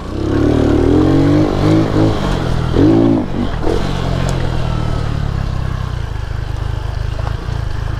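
Lifan KP Mini 150's 150cc single-cylinder engine revving hard, surging up and down twice in the first few seconds, then running at steadier, lower revs.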